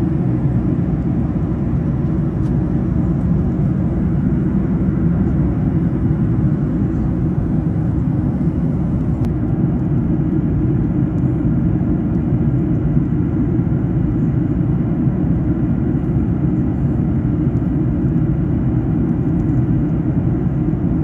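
Steady cabin drone of an airliner in flight, a constant low rumble of engine and airflow noise heard from a window seat.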